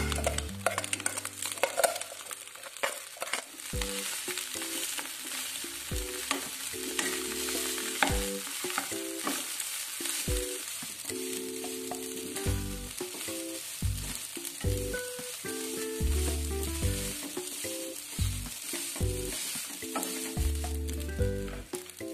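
Fried rice sizzling in a non-stick wok as it is stir-fried, with a spatula scraping and clicking against the pan, most busily in the first few seconds.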